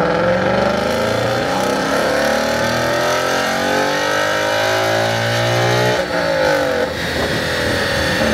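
Ford Mustang engine revving hard under load. Its pitch climbs, holds high, drops sharply about six seconds in, then climbs again.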